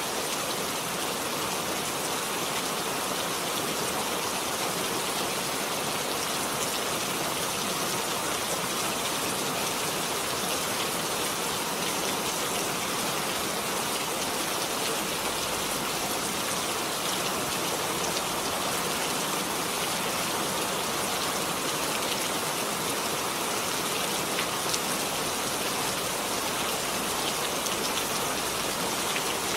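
Steady rainfall, an even hiss of rain with scattered drops striking a surface.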